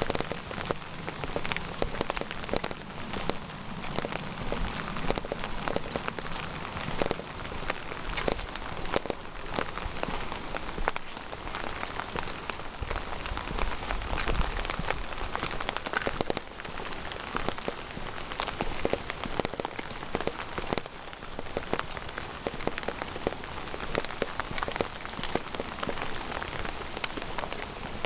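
Steady rain falling, with many separate close drops striking hard surfaces.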